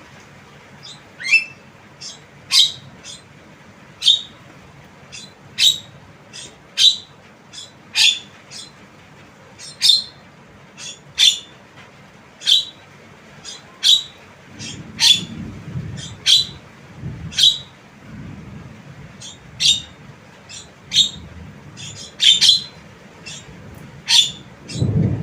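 Javan myna giving short, sharp chirps, about one every second and a half, some doubled. About halfway through, a low rumble joins underneath and grows stronger near the end.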